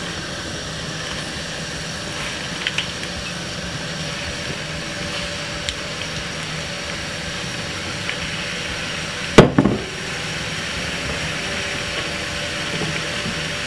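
Spinach leaves and chopped onion sizzling in hot olive oil in a frying pan, a steady hiss, with one sharp knock about nine seconds in.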